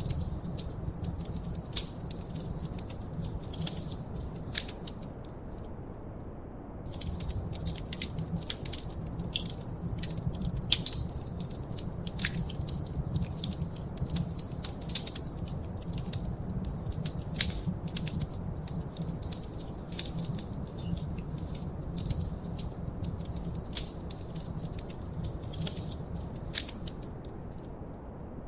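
Wood fire crackling in a fireplace: irregular sharp pops and snaps over a steady low rumble of the flames. The crackling briefly stops about six seconds in and again near the end.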